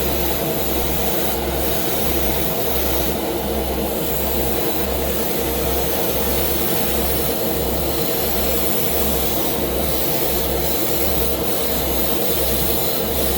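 A machine running steadily: a loud, even hiss with a steady hum and a low throb that pulses about one and a half times a second.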